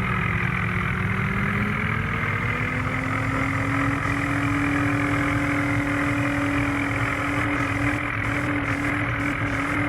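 Vehicle engine running steadily under load; its pitch climbs over a couple of seconds near the start as the revs come up, then holds at the higher speed.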